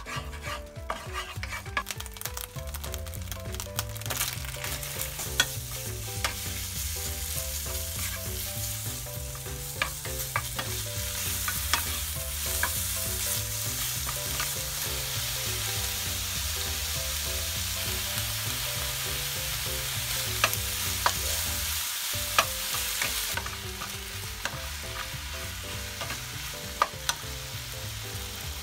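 Sliced pork frying in oil with ginger and garlic in a nonstick frying pan, sizzling steadily and growing louder a couple of seconds in. A wooden spatula stirs and tosses the meat, with scattered knocks against the pan.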